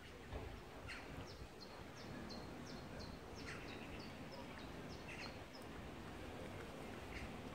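A songbird singing a run of short, falling high notes, about three a second, with a few separate chirps, over a low steady outdoor rumble.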